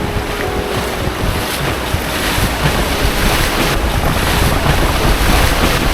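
Whitewater rapids rushing around a canoe as it runs them, with wind rumbling on the microphone; the rush grows a little louder about two seconds in.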